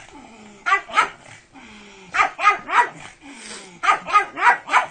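A pug barking in short, high yappy barks, in three quick bursts of two to four barks each.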